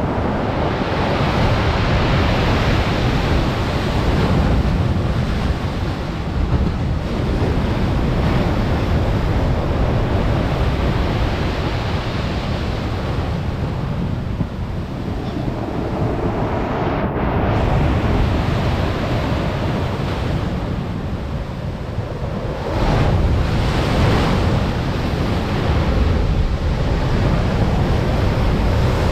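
Stormy sea surf breaking and washing on the shore, a heavy rushing that swells and eases, with a louder surge about three-quarters of the way through. Wind buffets the microphone throughout.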